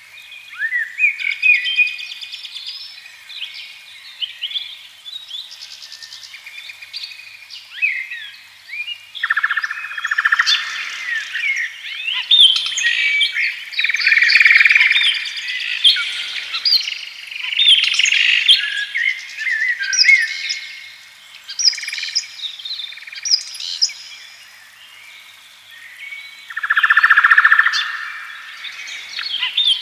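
Several songbirds singing and chirping at once, a dense chorus of short whistles and trills that swells and fades.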